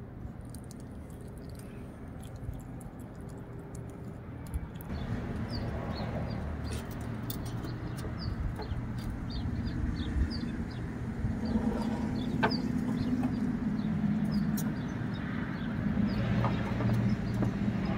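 Birds chirping in short, repeated calls over a steady low hum, with a few faint clicks.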